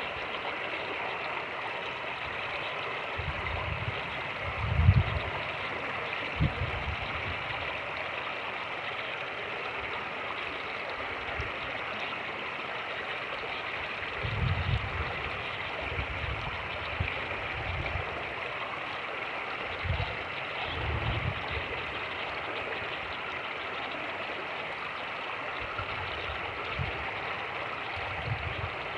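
Fast-moving creek water rushing and gurgling steadily over rapids. Several brief low rumbles of wind buffeting the microphone break in, the strongest about five seconds in.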